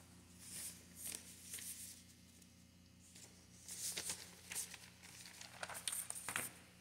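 Faint, irregular rustling and crinkling in short bursts, over a low steady electrical hum.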